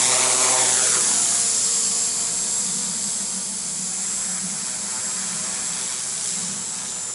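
Master CP micro collective-pitch RC helicopter in flight: the high steady whine of its 3800KV brushless main motor over the rotor noise, with sweeping shifts in tone about the first second. The owner reports it running smoothly after the motor repair, the tail holding without losing authority.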